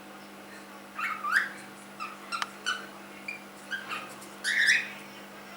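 Young cockatiel chirping and whistling: a string of short calls, some rising in pitch, the loudest about a second and a half in and again near the end.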